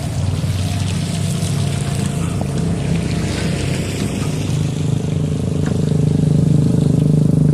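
Diesel engine of heavy earthmoving equipment, an excavator or dump truck, running steadily and growing a little louder in the second half.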